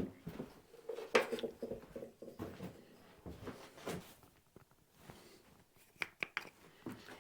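Scattered light knocks and clicks of objects being handled, with a quick cluster of sharp clicks about six seconds in.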